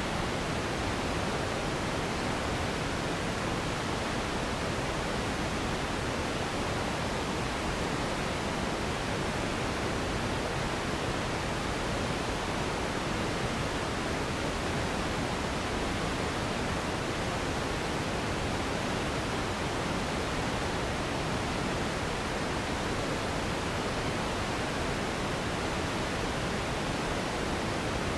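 Continuous steady sleep noise, an even unchanging hiss that reaches down into a low rumble, in the manner of pink noise.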